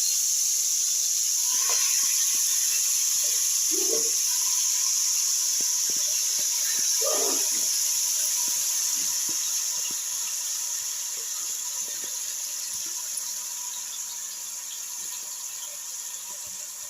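Masala-marinated chicken sizzling loudly in hot oil in a pan, a steady hiss that starts as the chicken goes in and slowly dies down over the last several seconds, with a few small clicks and knocks of the pan.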